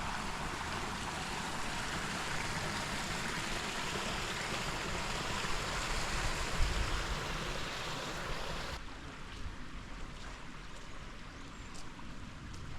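Creek water rushing steadily, then suddenly quieter about two-thirds of the way through, with a few faint clicks after the drop.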